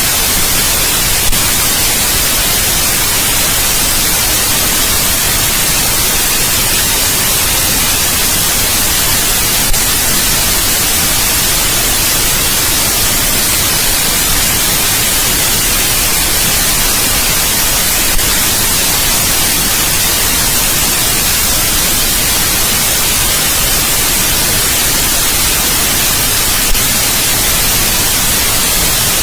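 Steady white noise, an even hiss across the whole range, with a faint click about every eight and a half seconds.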